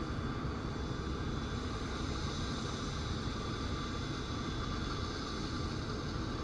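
Tractor engine running steadily, an even drone that does not rise or fall.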